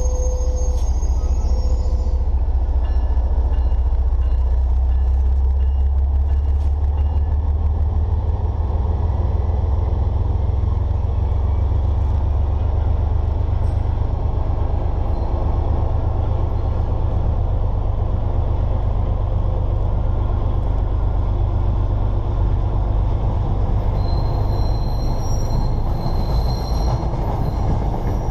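Diesel-hauled MBTA commuter rail train passing close by: a steady heavy rumble of the locomotive and the coaches rolling over the rails.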